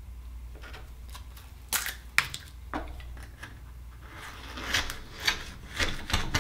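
Akoya oyster being shucked: irregular sharp clicks and short crackling scrapes of a metal tool prying at and working through the shell, coming thicker about two-thirds of the way in.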